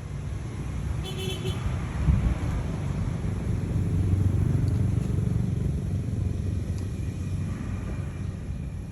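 Caterpillar 3412 V12 marine diesel engine running with a steady low rumble that swells a little around the middle. About a second in there is a short, high-pitched, horn-like toot.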